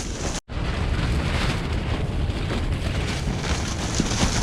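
Strong wind gusting against a camping shelter, its fabric flapping and shaking, with heavy wind rumble on the microphone. The sound cuts out for an instant about half a second in.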